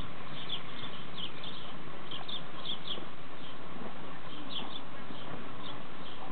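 Small birds chirping, short high chirps about twice a second at irregular intervals, over a steady background hiss.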